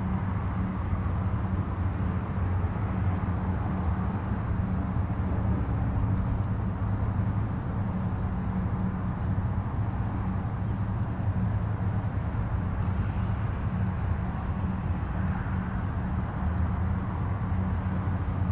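Steady rumble of distant highway traffic, a continuous low roar with a hum, and tyre noise that swells and fades slowly as vehicles pass.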